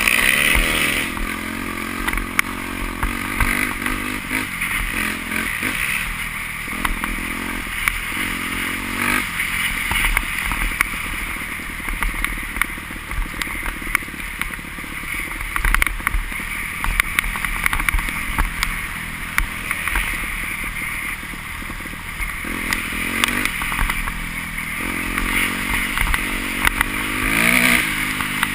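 Motocross motorcycle engines revving up and easing off repeatedly, several short rises in pitch, with one more rise near the end.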